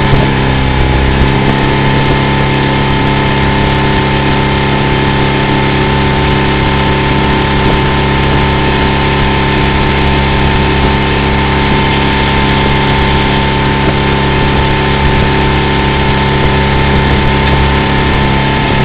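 Outboard motor of a motorboat running at a steady speed, a constant engine drone with an even hum and no change in pitch.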